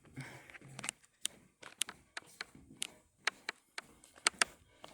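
Footsteps on a hard indoor floor: a string of sharp taps at roughly two a second.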